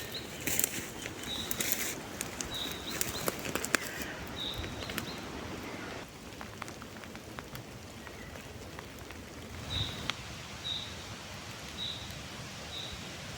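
A bird repeating a short, high call about once a second, in two runs with a pause between them, over a steady hiss of light rain. Scattered crackling clicks sound in the first few seconds.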